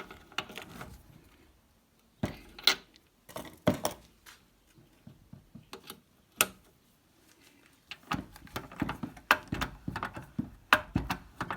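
Irregular metal clicks and knocks as a spark plug and its fitting are tightened on a pressure tester, to stop the pressure from dropping. The knocks come in quick clusters, thickest in the last few seconds.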